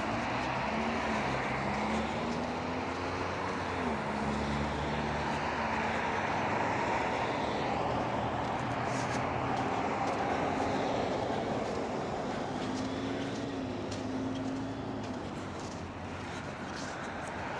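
Road traffic: vehicles driving past with a steady rush of tyre noise and a low engine hum that rises and falls in pitch as they pass.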